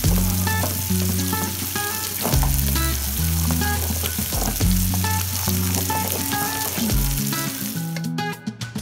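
Chicken breast fillets sizzling as they pan-fry in oil, a steady hiss that cuts off abruptly near the end.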